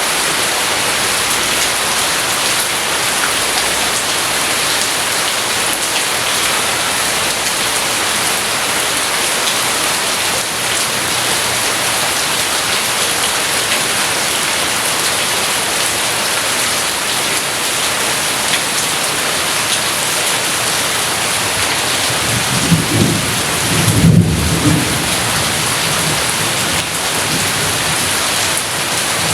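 Steady rain falling, a constant hiss, with a roll of thunder rumbling low about three-quarters of the way through and peaking briefly before fading back under the rain.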